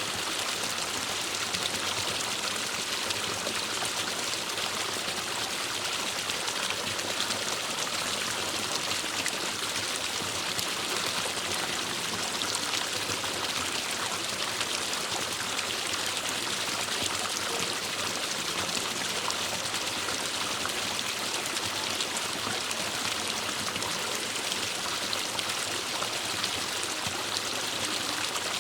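Forest stream running over stones, a steady rushing and splashing of water with no change in level.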